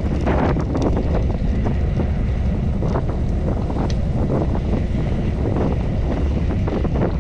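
Wind buffeting the microphone of a camera carried on a moving bicycle: a steady low rumble with scattered brief crackles.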